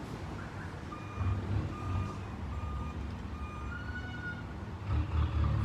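Vehicle back-up alarm beeping four times at an even pace, then one slightly higher beep, over the low rumble of an engine that grows louder near the end.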